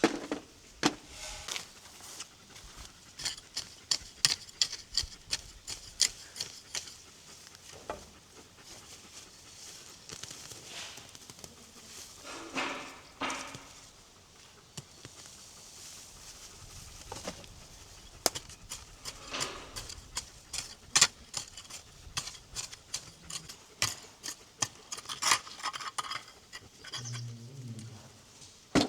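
Scattered light clicks and knocks at an uneven pace, with a few short scraping sounds, as objects are handled and moved about.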